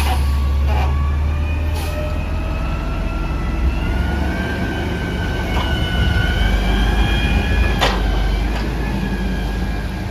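Peterbilt 320 front-loader garbage truck running, its engine rumbling louder from about four seconds in, under a steady high whine that drifts slightly in pitch. Sharp clanks at the start, about two seconds in and near the end.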